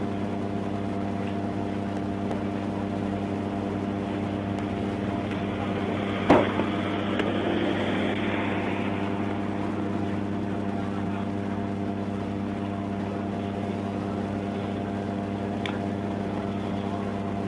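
Steady low hum of an idling vehicle engine heard from inside the vehicle. A single knock comes about six seconds in, followed by a short swell of hiss that fades away.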